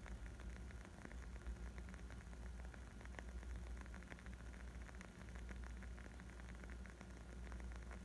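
Wood fire crackling: a dense run of small, irregular pops and snaps over a low, steady rumble.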